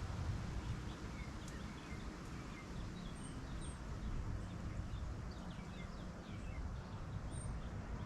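Outdoor rural ambience: a steady low rumble with faint, short bird chirps scattered through it.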